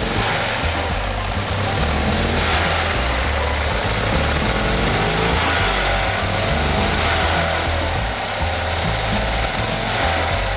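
Fiat 500's air-cooled two-cylinder engine running steadily at idle, heard up close at the open engine bay.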